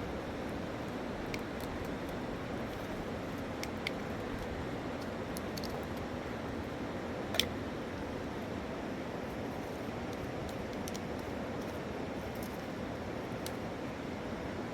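Steady rushing noise at an even level, with a few faint scattered clicks and one sharper click about halfway through.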